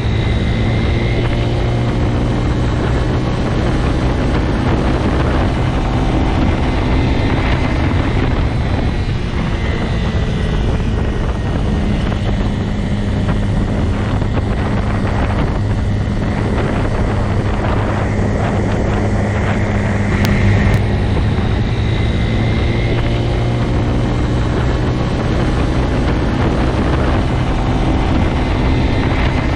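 Motorcycle engine running at a steady speed: a continuous low drone with only small changes in pitch.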